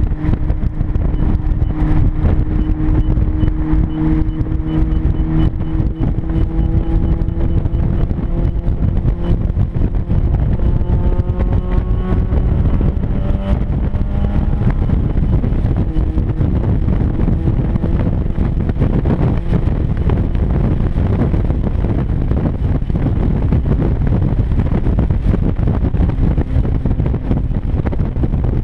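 1996 Mazda Miata's four-cylinder engine running at highway speed through a deliberate exhaust leak between the catalytic converter and mid-pipe, very loud. A steady low rumble throughout, with the engine note climbing slowly over the first half.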